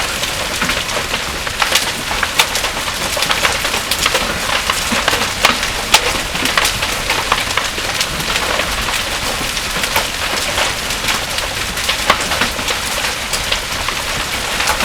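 Heavy rain pouring with a steady hiss, while hailstones strike hard surfaces in many sharp, irregular cracks.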